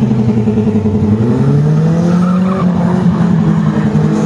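Car engines running loudly, one revving up in pitch about a second in and then holding at the higher speed.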